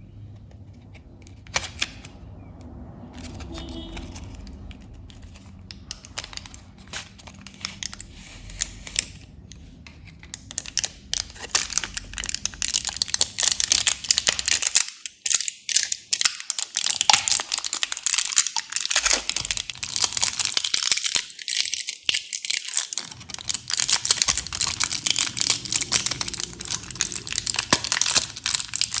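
Plastic candy wrappers and packaging crinkling and tearing open by hand: scattered crackles at first, then a dense stream of crinkling that grows louder about a third of the way through.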